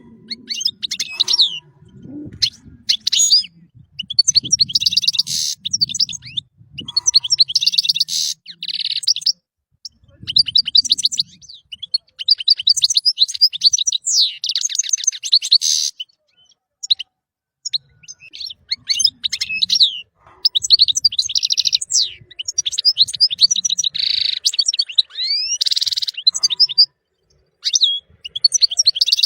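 European goldfinch singing: fast, liquid twittering phrases with buzzy trills and quick up-and-down notes, broken by short pauses of a second or so.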